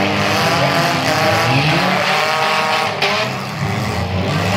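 Several small demolition derby cars' engines revving hard at once, their pitch rising and falling as the cars push and ram each other, with a sharp bang about three seconds in.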